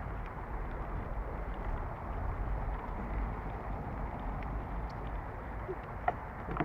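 Bicycle riding on a dirt trail: tyres rolling over the ground and wind rushing over a bike-mounted camera's microphone, with faint ticks and one short sharp click about six seconds in.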